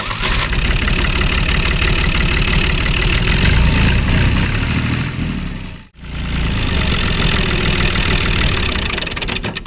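Motor of a handmade miniature tractor running steadily, cutting out briefly about six seconds in before running on.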